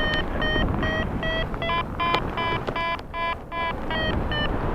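Paragliding variometer beeping its climb tone, short beeps about two to three a second that come faster and higher in pitch around the middle, then slow again, as the glider rises in ridge lift. Wind noise rumbles on the microphone underneath.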